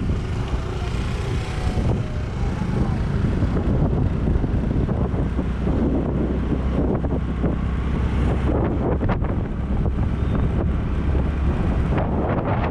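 Wind buffeting the microphone of a moving action camera: a steady, dense low rumble of wind noise.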